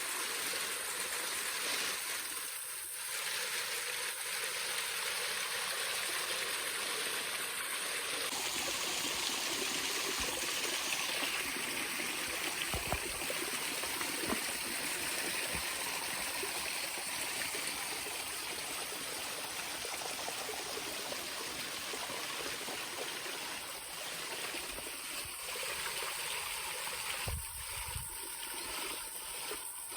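Waterfall and creek water splashing and rushing, a steady even hiss, with a few faint low bumps from handling.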